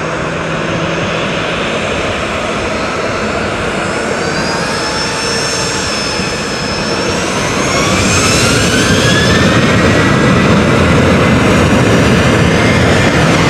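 Aircraft turbine engine running, its whine gliding up in pitch over several seconds and then holding steady, with the engine noise growing louder about eight seconds in.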